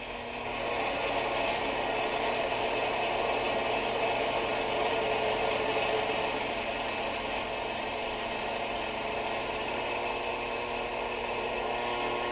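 Vintage electric heater running on its high setting: a steady, rough rattling mechanical noise over a low electrical hum, swelling about half a second in and then holding steady.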